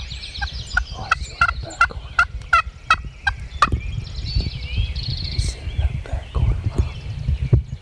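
Wild turkey yelping: a run of about ten short, evenly spaced yelps, close to three a second, that stops a little under four seconds in. Songbirds chirp faintly and a low rumble runs underneath.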